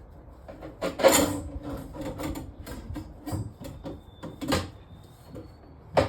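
Irregular knocking, clattering and scraping from hands working on clogged kitchen sink drain pipes. The sharpest knocks come about a second in and again near the end.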